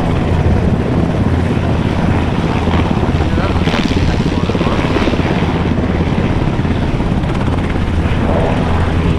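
An aircraft running close by: a loud, steady drone with a low pitched hum.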